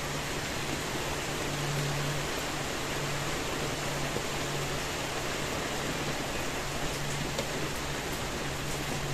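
Steady rain falling, an even dense hiss, with a low steady hum underneath that swells and fades a little.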